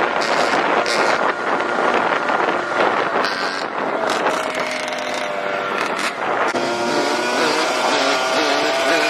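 Dirt bike engine running under way over a steady rushing noise, holding an even pitch from about halfway through and starting to rise and fall with the throttle near the end.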